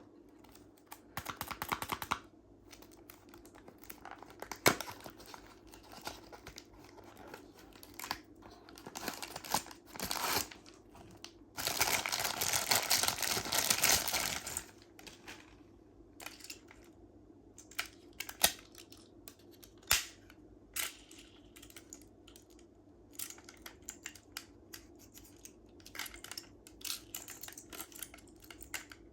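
Close-up handling of small toy-car packaging: scattered light clicks and taps with crinkling, and a rough tearing or rustling noise lasting about three seconds near the middle.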